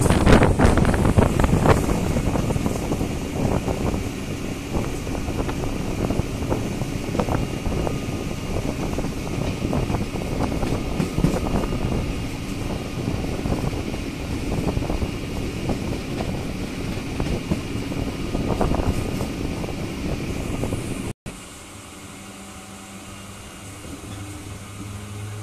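Running noise of a moving suburban electric train heard from on board: steady rumble and clatter of the wheels on the rails, with wind buffeting the microphone, loudest in the first couple of seconds. About 21 seconds in the sound cuts out abruptly and returns quieter, as a low steady hum.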